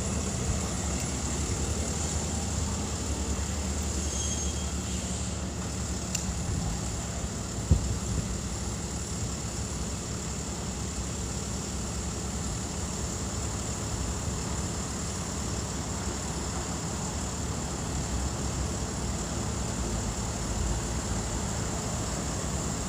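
Steady low rumble of a vehicle, with one short knock about eight seconds in.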